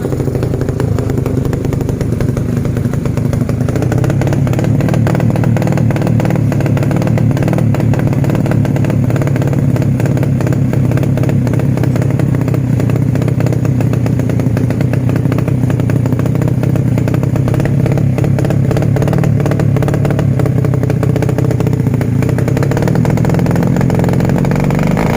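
Motorcycle engine running steadily at an even, low idle through a DYN aftermarket full-stainless exhaust with a 20 cm silencer, with a dense, deep exhaust pulse.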